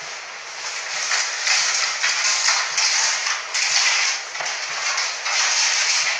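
Lottery draw machine running between prize announcements: a loud mechanical rattling and creaking that swells and fades every second or so.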